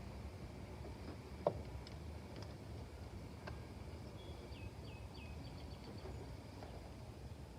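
Steady low outdoor background noise, with a bird chirping a quick run of short high notes past the middle and a single sharp click about one and a half seconds in.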